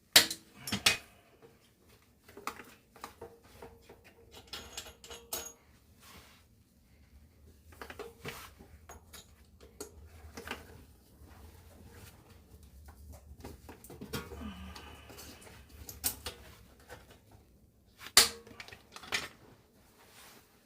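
Irregular clicks and light clattering knocks of hand-tool work, with the sharpest knocks at the very start and about eighteen seconds in, over a faint low hum.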